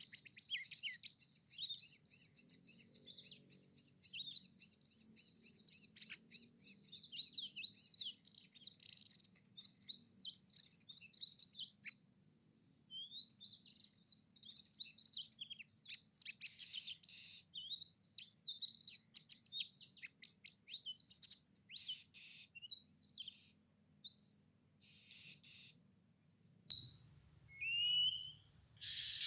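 Oriental magpie-robin (kacer) song: a steady stream of rapid, varied high chirps and whistles, rising and falling in pitch.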